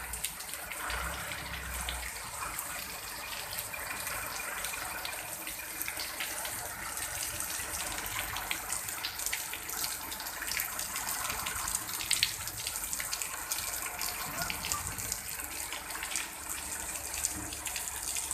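Steady heavy rain: a dense hiss of falling water with many small sharp splashes of drops.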